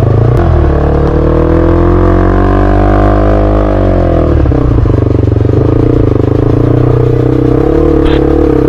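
Motorbike engine running while being ridden. Its pitch climbs just after the start, holds, then falls about four seconds in as the throttle eases, and runs steady for the rest.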